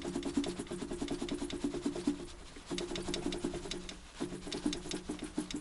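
Rapid metallic clicking from the UAZ's UMZ-417 engine as its crankshaft is rocked back and forth by hand, the play knocking in the worn crankshaft timing gear. It comes in runs of quick ticks with two short breaks, a tick-tick-tick that the owner takes for the same knock the engine made when running.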